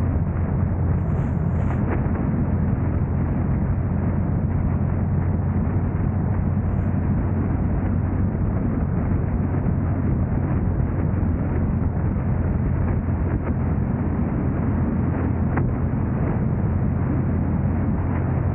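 Steady low rumble of a car on the move: road and engine noise at an even level throughout.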